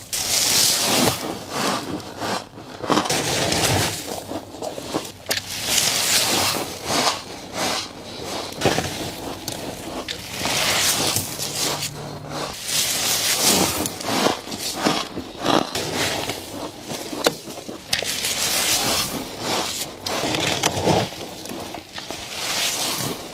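Crunchy, powdery freezer frost bitten and chewed close to the microphone: a crisp crunching bite every two to three seconds, with crackly chewing between.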